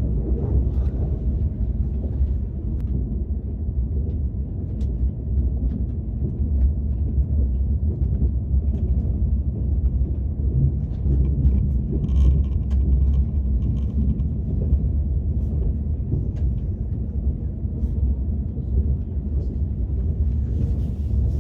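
Steady low rumble of a KTX high-speed train running, heard from inside the passenger cabin, with a few faint clicks on top.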